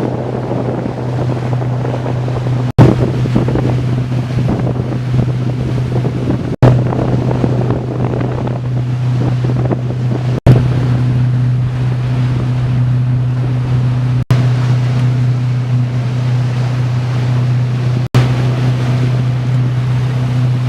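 A boat's motor running with a steady low hum under water splashing and wind buffeting the microphone. The sound drops out for an instant roughly every four seconds.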